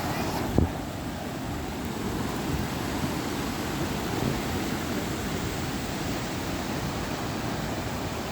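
Steady rush of fast-flowing water, as from a waterfall or a river in spate. There is a brief thump about half a second in.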